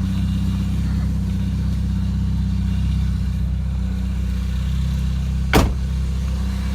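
2000 Chevy Cavalier's 2.2-litre four-cylinder engine idling steadily, with a single sharp click about five and a half seconds in.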